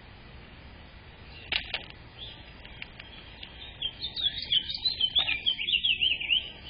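A small songbird sings a rapid twittering song of quick up-and-down high notes, lasting about two and a half seconds, in the second half. It is preceded by a couple of short sharp notes.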